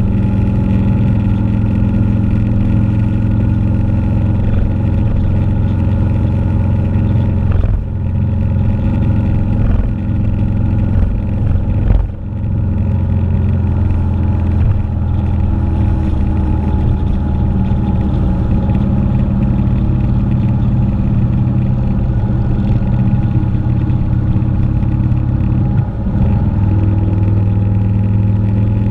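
A motorcycle engine running steadily, as at road cruising speed, with brief dips in loudness about eight and twelve seconds in.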